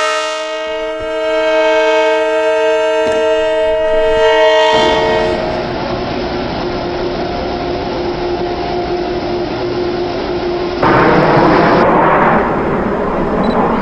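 Multi-note air horn of a Long Island Rail Road DM30AC dual-mode locomotive sounding one long chord for about four and a half seconds, then the steady noise of the train running past, louder for a moment near the end.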